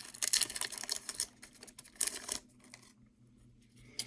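Trading cards being handled: a burst of rustling and light clicks as cards slide and flick against each other, a shorter one about two seconds in, then quiet.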